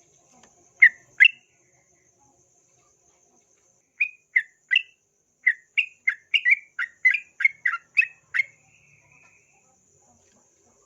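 Yellow-vented bulbul calling: two short bubbly notes, a pause of about three seconds, then a quick run of about a dozen chattering notes that stops about two-thirds of the way through. A faint steady high buzz runs underneath.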